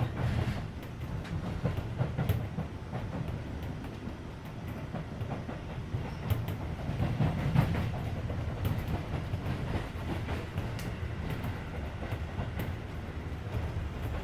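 Keisei 3400 series electric train heard from inside the passenger car while running: a steady low rumble of wheels on rail, with irregular clicks and knocks as the wheels cross rail joints. The air conditioning adds a steady hum.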